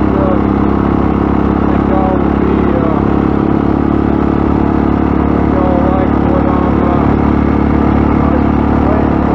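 Dirt bike engine running at a fairly steady throttle while being ridden.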